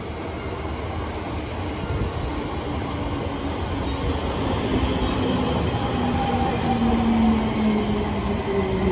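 Electric commuter train pulling into the platform and slowing, its motor whine falling in pitch over a rumble of wheels on rail. It grows louder as the cars run past close by.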